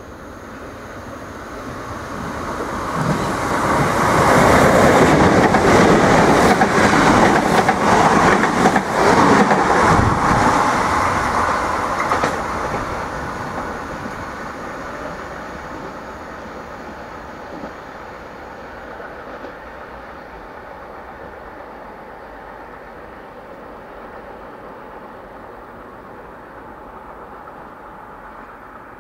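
Irish Rail 22000 class diesel multiple unit passing through at speed. The sound builds over the first few seconds, gives a loud run of rapid wheel clatter for several seconds as the carriages go by, then fades steadily as the train moves away.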